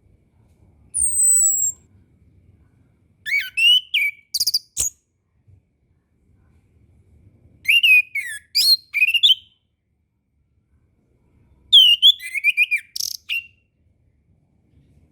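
Chestnut-capped thrush (anis kembang) singing. A thin, high whistle slides down about a second in, then three quick phrases of varied whistled notes follow a few seconds apart.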